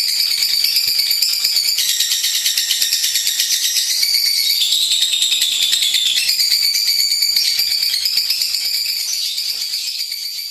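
Lovebird singing a long, rapid, high-pitched chattering twitter of many quick notes a second, fading away near the end.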